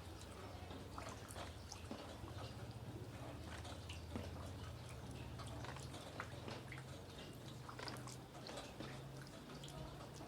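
Rain falling, with many irregular drops tapping and dripping close by over a steady low hum.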